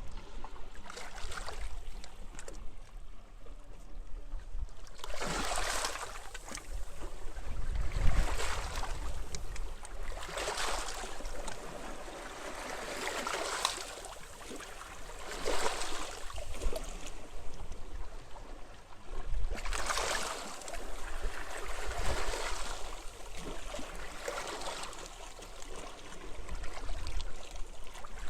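Small sea waves breaking and washing onto a beach, a new surge every two to three seconds, with a low rumble of wind on the microphone.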